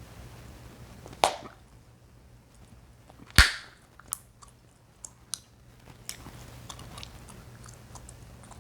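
Chewing gum popped and snapped in the mouth close to the microphone: two loud sharp pops, the second, about three and a half seconds in, the loudest, followed by several smaller snaps and clicks.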